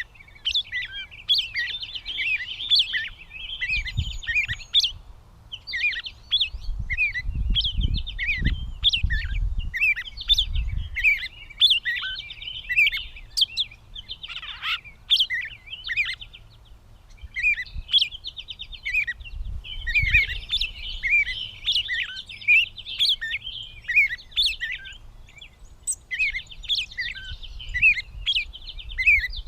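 Gray catbird singing a long, rambling song: quick, varied squeaky chirps and slurred notes strung into phrases, with short pauses between runs.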